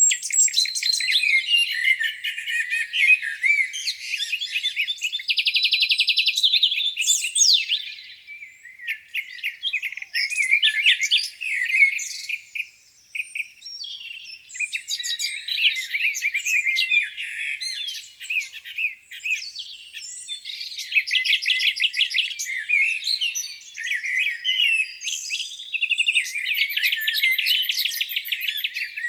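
A chorus of several songbirds singing at once on a spring morning: overlapping chirps, whistled phrases and fast, even trills that come and go in waves, with no low sounds beneath them.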